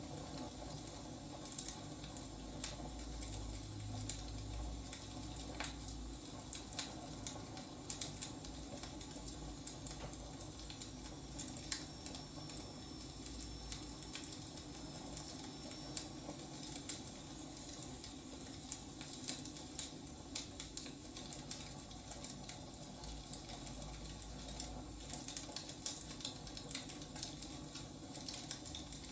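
Wood fire crackling, with irregular sharp pops and snaps over a steady hiss of burning logs.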